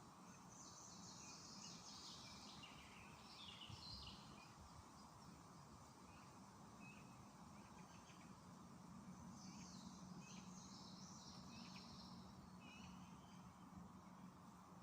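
Faint birdsong in a park: two spells of high, quick chirping, one in the first four seconds and another from about nine to thirteen seconds in, over a steady low background hum.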